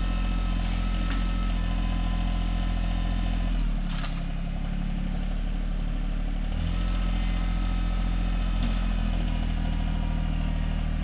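RK24 compact tractor's diesel engine running steadily. Its pitch drops for about three seconds from just under four seconds in, then comes back up, as the tractor pulls on a stump through a winch cable and snatch blocks.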